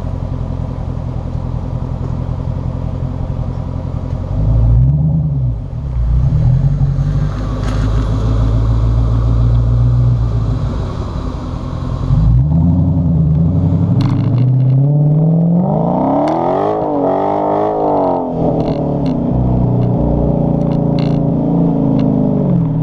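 Dodge Challenger SRT8's 6.4-litre HEMI V8 with the rear mufflers deleted, idling, then blipped twice and revved up once for longer before settling back to idle.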